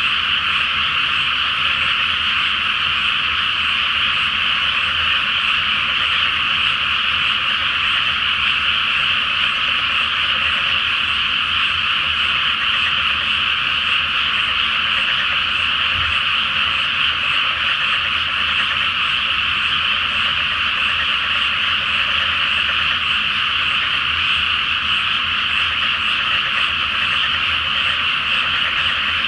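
A dense chorus of many frogs calling from a flooded rice paddy: a continuous, steady din of overlapping croaks with no pauses or breaks.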